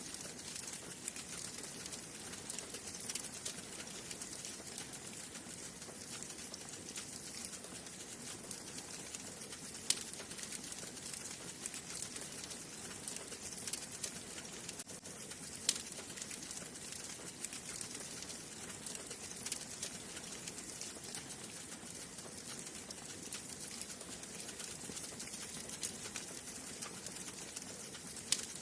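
Wood fire burning in a fireplace, crackling steadily with many small ticks and an occasional sharper pop, the loudest about ten seconds in.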